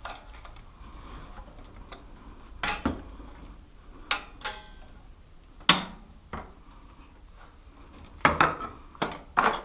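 Hand tools and metal parts clinking and knocking on a motorcycle part being dismantled, about eight irregular sharp clicks, the loudest a little past halfway and a quick cluster near the end.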